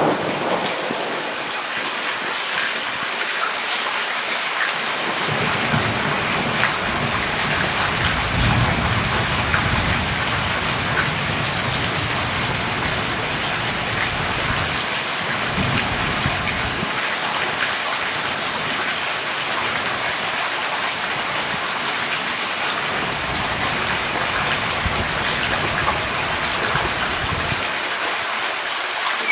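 Steady heavy rain during a thunderstorm. Low thunder rumbles roll in about five seconds in, and again through much of the second half.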